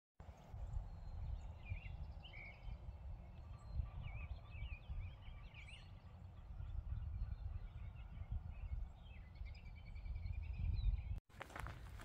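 Birds chirping in several short bursts over a low, uneven rumble; the sound cuts out abruptly near the end.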